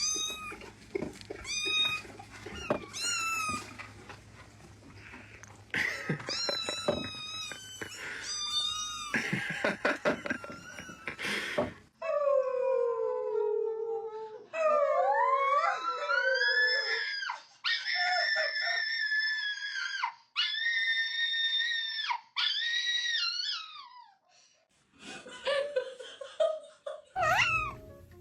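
Cats meowing: a long run of separate meows, some sliding in pitch and several held for about a second each, with a brief pause near the end.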